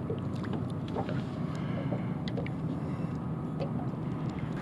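A boat's motor running steadily as a low, even hum, with faint scattered ticks and small water splashes over it.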